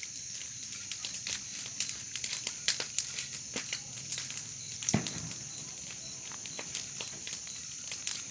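Wood bonfire crackling, with irregular sharp pops and one louder pop about five seconds in.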